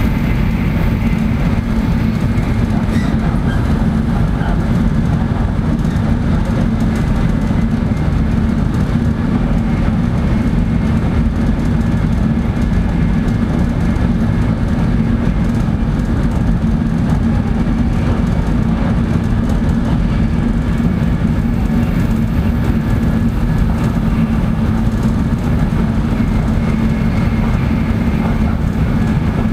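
Tokaido Shinkansen bullet train running at speed, heard from inside the passenger car: a steady rumble and rush of wheels and air with a constant low hum.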